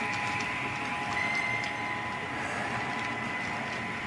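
Model freight train running slowly on its track: a steady small electric motor whine with faint clicks from the wheels rolling over the rails.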